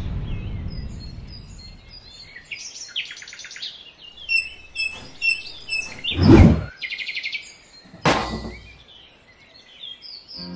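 Birds chirping and tweeting in short repeated phrases, with two brief swishing thumps about six and eight seconds in, the first the loudest sound.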